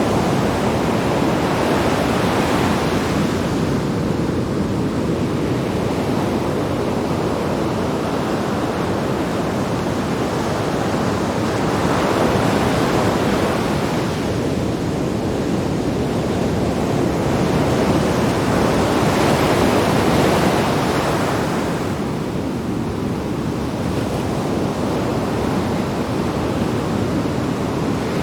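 Sea waves breaking on rocks: a continuous surf wash that swells into a louder crash about every eight seconds.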